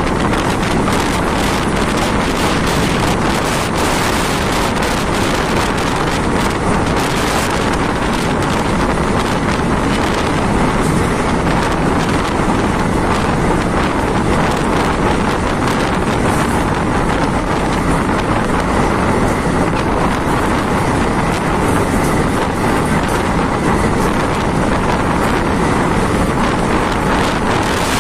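Wind buffeting a microphone held outside a moving passenger train, over the steady running noise of the coach on the track.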